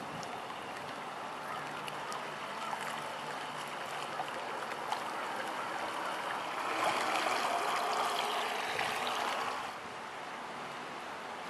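Radio-controlled model Schnellboot with three motors running on the water, with a steady rush of water. About seven seconds in it grows louder for roughly three seconds, then drops back.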